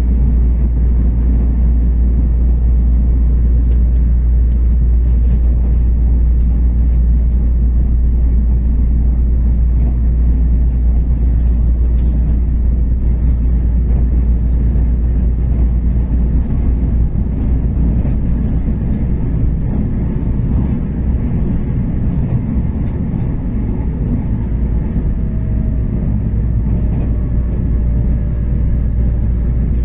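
Tze-Chiang Limited Express train running at speed: a steady low rumble of the train in motion, with a few faint clicks in the middle and a thin, faint whine near the end.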